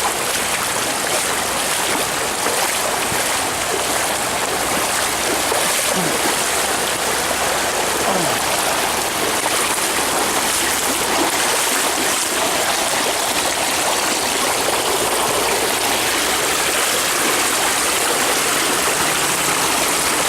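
Floodwater rushing steadily, an even, unbroken wash of moving water.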